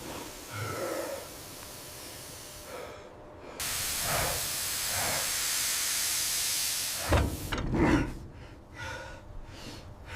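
A sudden loud hiss of escaping gas or steam starts about three and a half seconds in and holds steady for about three seconds, then breaks off into two heavy thumps.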